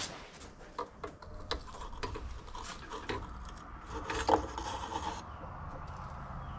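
Handling noises at a small electric melting furnace: a run of light clicks, knocks and clinks as it is shut down and its crucible is worked with tools. There is a brief rasping scrape about four seconds in, and a low steady hum underneath.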